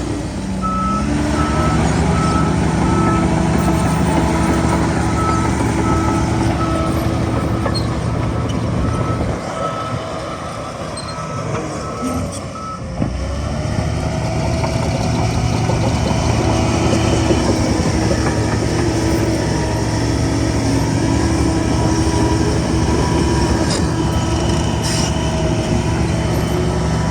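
Heavy diesel earthmoving machinery running, with a reversing alarm beeping at about one beep a second for the first dozen seconds. The engine eases off briefly near the middle, then picks up again.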